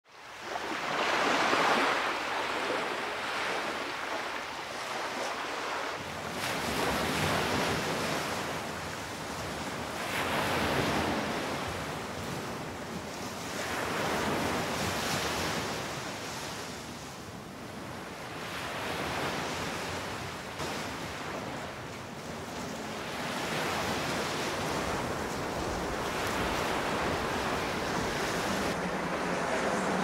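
Ocean surf breaking and washing up a beach among blocks of glacial ice, swelling and falling away every few seconds, with wind.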